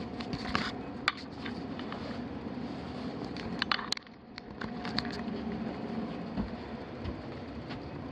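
Scattered clicks and crackles of someone moving about and handling things in an attic, over a steady background noise.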